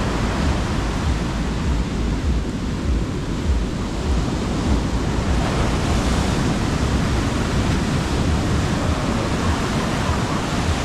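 Sea surf washing onto a sandy beach, a steady rush of waves, with a low rumble of wind on the microphone.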